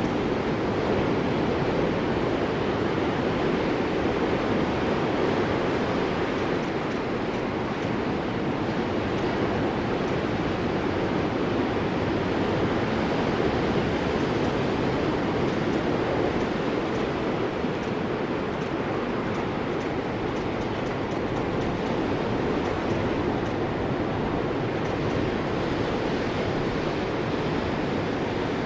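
Ocean surf: a steady, even wash of breaking waves, with no distinct surges.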